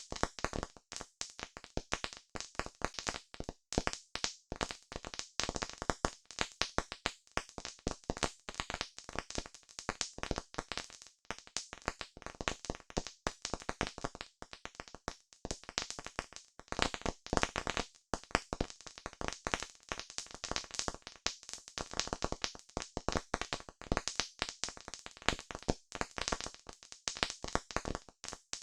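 Campfire crackling: a dense, irregular stream of pops and snaps from burning wood.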